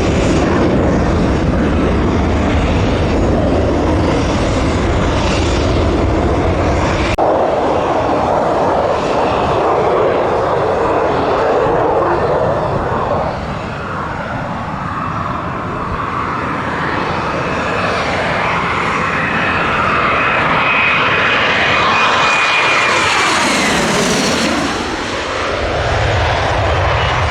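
Lockheed Martin F-35A Lightning II's Pratt & Whitney F135 turbofan, loud continuous jet noise as the fighter flies circuits. The deep rumble drops away abruptly about seven seconds in. Later a thin high whine comes in and then falls, with a sweeping change in tone as the jet passes by near the end.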